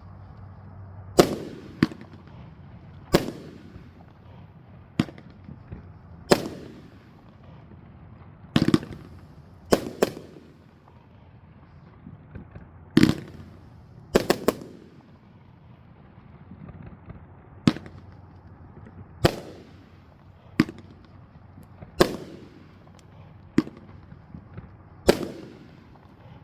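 A 21-shot, 500-gram firework cake (Elite Fireworks' Nuclear Bomb) firing its shots one after another. There are about twenty sharp bangs, roughly one every second or so, with a few coming in quick pairs.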